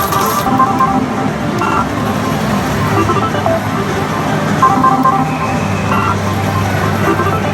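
Pachislot parlour din: a dense, steady roar of many slot machines, with short repeated electronic beep patterns from the machines.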